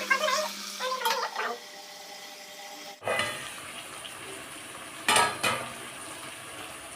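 Chicken frying in a pan, stirred and scraped with a metal spoon, with a steady sizzle and one loud scrape about five seconds in. A short pitched call, like a voice or a cat's meow, comes in the first second or so.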